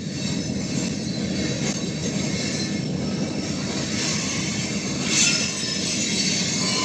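Railroad cars rolling past with steady wheel-on-rail rumble, and a brief high wheel squeal about five seconds in.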